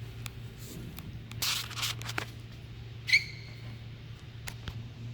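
Handling noise from a truck's plastic door trim panel and its clips: a scraping rustle about a second and a half in, a few light clicks, and a short high squeak about three seconds in, over a steady low hum.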